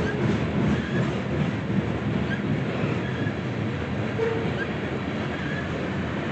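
Train rolling past with a steady rumble of wheels on the rails, and a few brief faint squeaks scattered through it that the listener puts down to the tracks.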